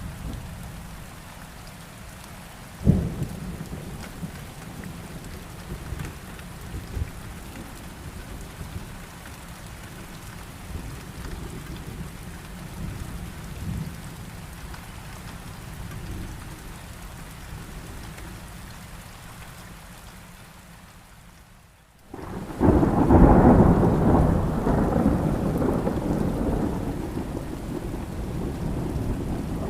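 Heavy rain falling steadily through a thunderstorm. A sharp thunderclap sounds about three seconds in, followed by quieter distant rumbles. After a brief drop in sound past the two-thirds mark, a loud rolling peal of thunder breaks and slowly fades under the rain.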